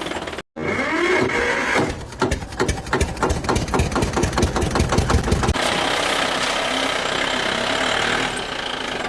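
Cartoon vehicle engine sound effect: after a brief cut-out about half a second in, an engine starts with a run of quick, even chugs for a few seconds, then settles into a steady running sound.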